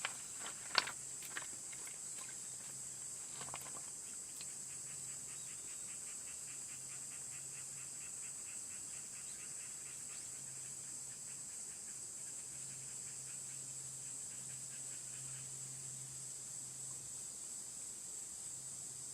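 Steady high-pitched chorus of insects, with a few sharp clicks in the first seconds and a fast, even ticking trill from about four seconds in until near the end.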